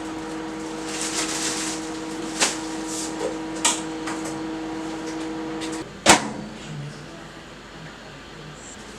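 Microwave oven running with a steady hum that stops about six seconds in, followed by a sharp click of the door being opened. A few lighter knocks and clicks come before it.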